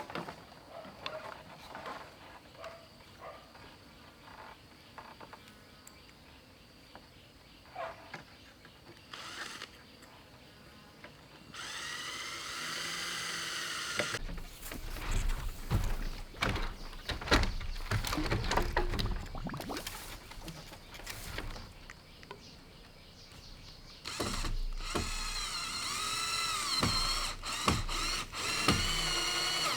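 A small handheld power tool whining in two spells, its pitch dipping and recovering as it bites into bamboo. In between come many sharp knocks and clatter of bamboo being handled.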